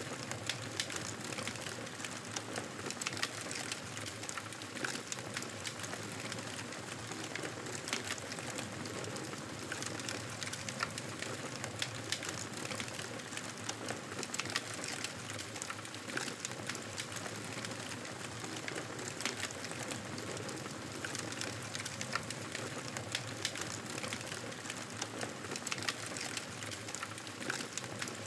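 Campfire burning, with a steady hiss of flames and frequent small crackles and pops from the burning wood.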